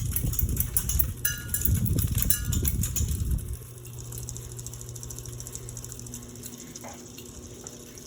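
Westinghouse Xavier ceiling fan running with a steady low motor hum. Louder rumbling and rattling cover it for the first three and a half seconds, then stop and leave the hum alone.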